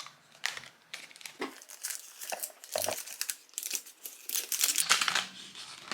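Plastic packaging crinkling and tearing in irregular handfuls, as a small LOL Surprise accessory bag is pulled open.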